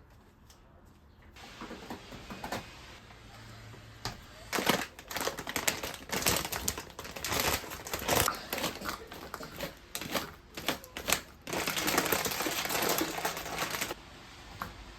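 Household handling noise: a dense run of quick clicks, taps and crinkling rustles. It starts about four seconds in and stops abruptly near the end.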